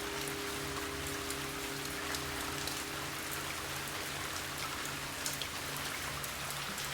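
Steady rain with scattered patters of drops. Over the first few seconds, the lingering ring of a Tibetan singing bowl fades away beneath it.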